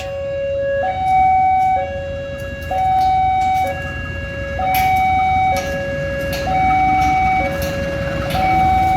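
Electronic warning alarm of an automatic railway level-crossing barrier sounding a two-tone hi-lo pattern, switching between a lower and a higher tone roughly every second, over a low rumble.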